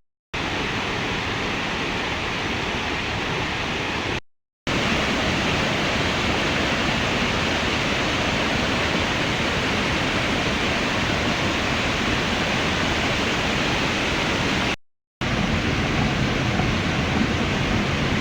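Steady rushing of water, an even noise without rhythm, broken by three brief silent cuts: one right at the start, one about four seconds in, and one about fifteen seconds in.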